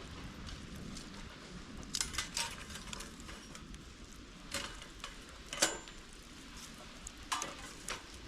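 A few sharp metallic clinks and taps of cooking gear over a bonfire, one of them ringing briefly, over a low steady rumble.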